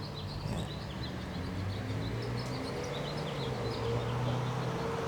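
Small songbirds chirping in quick, short notes, over a low steady hum of road traffic.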